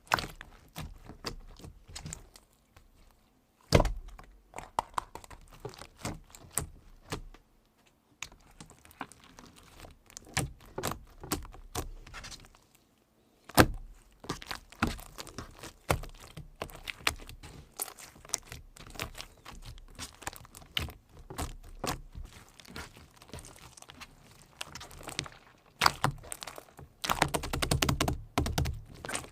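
Irregular clicking and tapping with a few louder knocks, about 4 and 14 seconds in, and a dense run of rattling clicks near the end.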